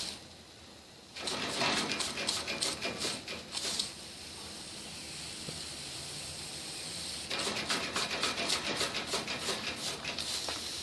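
Weeden No. 14 toy live steam engine hissing steam, with two spells of rapid clicking and puffing, starting about a second in and again past the middle, as it is coaxed to start and does not yet run steadily.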